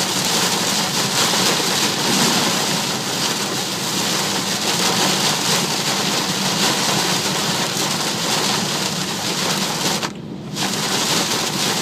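Heavy rain hitting a moving car, a steady dense hiss with road noise underneath. Near the end the rain sound briefly cuts out for about half a second, then returns.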